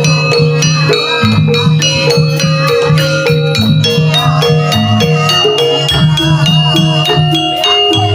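Javanese jaranan gamelan music: struck metallophone notes over drum strokes, with a fast rattling, clicking percussion.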